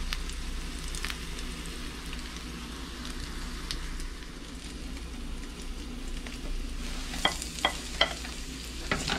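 Ginger strips sizzling steadily in hot cooking oil in a metal wok. A few sharp clicks come about seven to eight seconds in.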